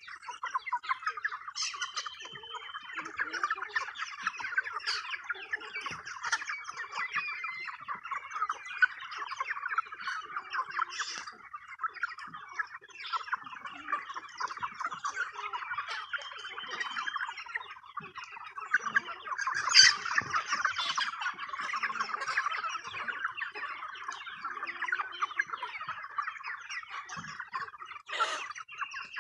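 A flock of chickens clucking and chattering continuously while being fed treats, with a louder squawk now and then, most strongly about twenty seconds in.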